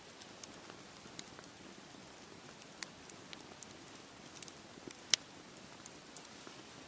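Campfire crackling: scattered sharp pops and snaps over a steady hiss, with two louder pops about three and five seconds in.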